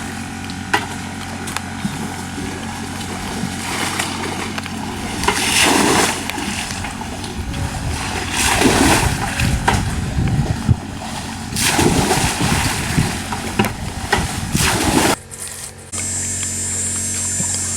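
Water splashing and sloshing in several loud surges as it is bailed out, over a steady mechanical hum.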